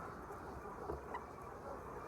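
A large flock of poultry in a shed: a steady mass of many small overlapping calls.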